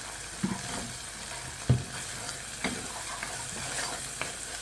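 Onions and green chillies frying in oil in a pan with a steady sizzle, while a spoon stirs in spices and knocks against the pan a few times, loudest about one and a half seconds in.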